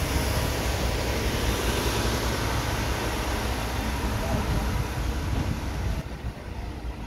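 Coaches of a departing passenger train rolling past on the rails, a steady rumble and rattle of wheels. The noise drops suddenly about six seconds in as the last coach goes by.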